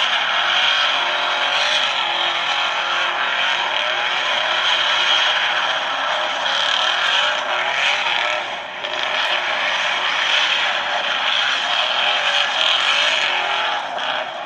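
Recorded car sounds: a car engine running steadily, thin-sounding with almost no bass.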